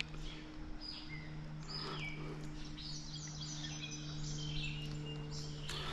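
Songbirds chirping in short high calls, with a quick run of falling notes midway, over a steady low hum and an even background hiss. A single click at the very start.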